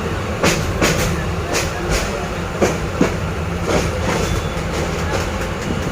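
Passenger train running on the rails: a steady rumble of the moving carriage with sharp, irregularly spaced clicks and clatter from the wheels.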